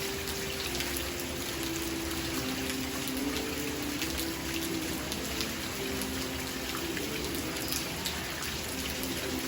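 Steady rain falling, with many individual drops pattering. Under it run faint held notes that change pitch every second or so.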